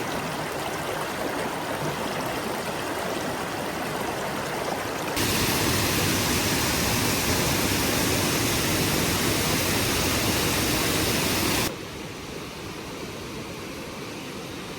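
Water of a small waterfall and its stream rushing steadily. The rush turns abruptly louder and fuller about five seconds in, then drops back sharply a few seconds before the end.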